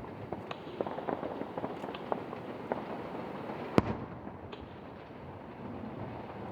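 Aerial fireworks bursting in quick succession, a string of sharp cracks and pops with one much louder bang a little under four seconds in.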